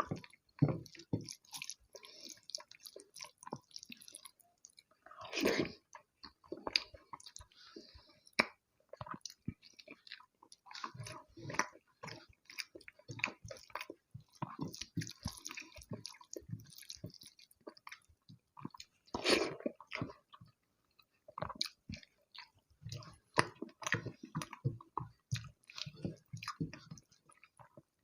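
Close-up mouth sounds of someone eating rice with curry: steady wet chewing and lip smacks, with two louder, longer bursts about five seconds in and near twenty seconds.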